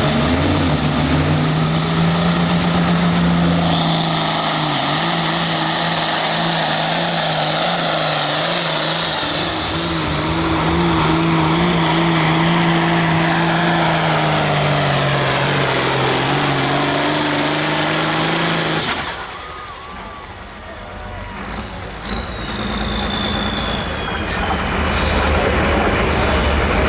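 John Deere 4010 pulling tractor running flat out under load as it drags the weight sled, for about nineteen seconds. Then the throttle drops off suddenly, and a high whine falls away slowly over the next few seconds.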